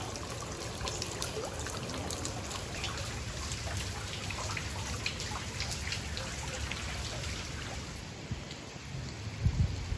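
Rain falling on standing floodwater: a steady hiss dotted with many small drop ticks. Two low thumps come near the end.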